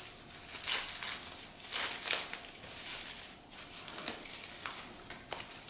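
Packing material crinkling and rustling as a potted orchid is handled and unwrapped by hand, in irregular crinkles with a few louder crackles.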